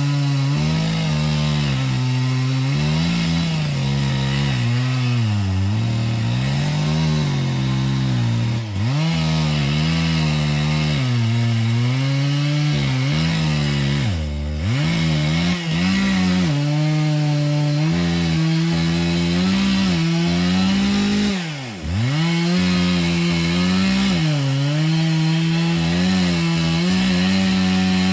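Chainsaw running under load while cutting into a dead ash tree, its engine pitch repeatedly sagging and picking back up as the bar bites into the wood. About three-quarters of the way through, it briefly drops off and then revs back up.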